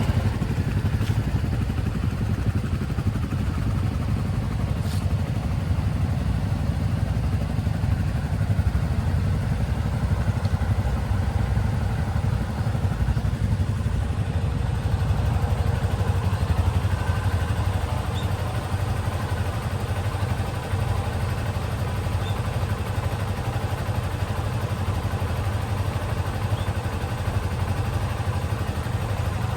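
Motorcycle engine idling steadily, cold-started after long storage, with a couple of faint ticks early in the run.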